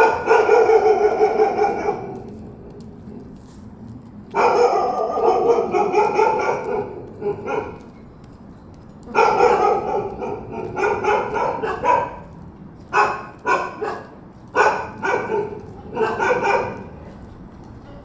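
Dog barking and yelping in repeated bouts: several drawn-out calls, then a quicker run of short barks.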